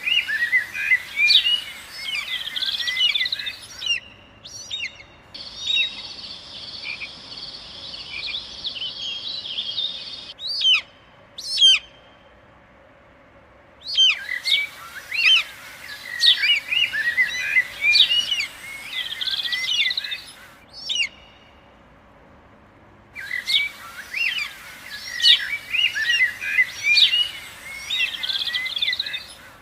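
Added forest sound effects: a dense chorus of chirping bird calls that cuts in and out abruptly, with a steady high buzz for a few seconds early on and two short quiet gaps.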